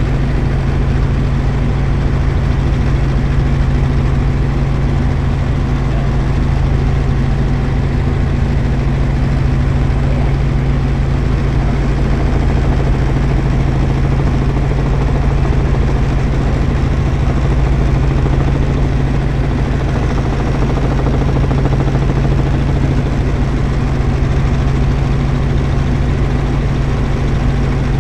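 Helicopter in flight: a steady, unbroken drone of engine and rotors with a strong low hum.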